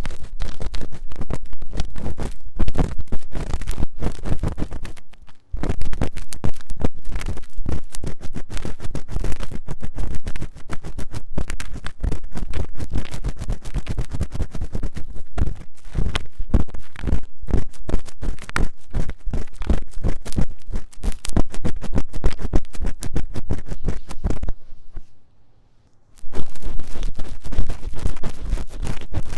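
Fast, vigorous ear-cleaning scratching on the ear of a 3Dio binaural microphone: a dense run of close, loud strokes with no talking. It breaks off for about a second near the end, then starts again.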